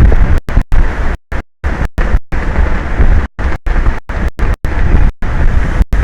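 Wind buffeting an exposed outdoor microphone: a loud, rough rushing rumble heaviest in the low end, broken again and again by brief moments where the sound cuts out completely.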